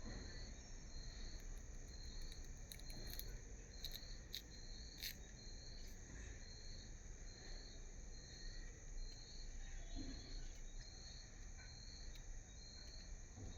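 A cricket chirping steadily, a short high chirp about twice a second, with a few faint clicks in the first half.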